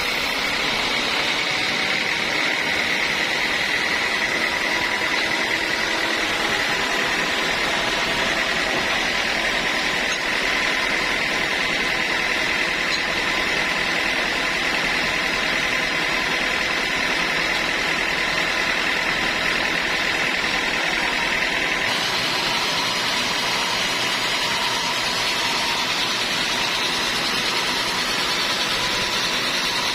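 Sawmill saw running steadily through a teak log, a constant high whine over machine noise that changes pitch about three quarters of the way through.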